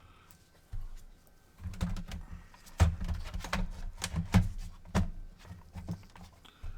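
Hands handling parts inside an opened PS4: an irregular run of light clicks, taps and low bumps that starts about a second in and dies away near the end.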